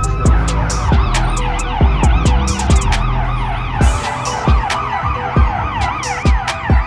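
A siren sounding in a fast up-and-down yelp, over music with a heavy, regular bass-drum beat.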